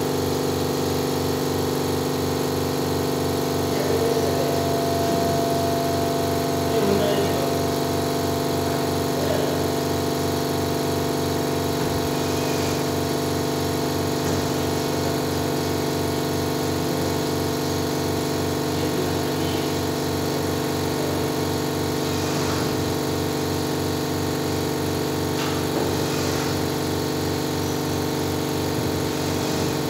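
An engine or motor running steadily at a constant speed, an even hum with a fast regular pulse.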